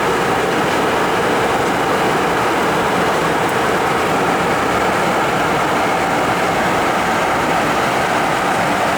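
Steady, unchanging cabin noise inside an Embraer Phenom 300 business jet: a rushing rumble of airflow and its twin turbofan engines.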